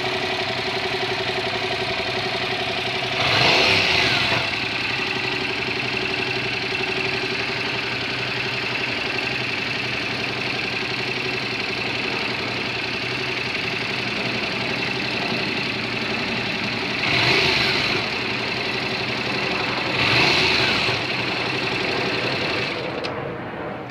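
Motorcycle engine running steadily at idle, with three brief louder surges of revving. The sound eases off just before the end.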